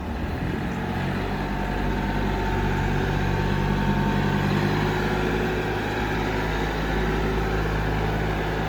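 John Deere tractor engine running steadily while moving and packing dirt.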